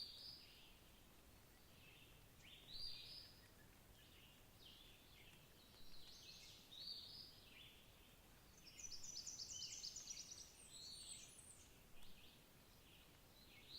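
Faint songbird calls: short phrases repeat every second or two, with a rapid trill of quick high notes about nine seconds in.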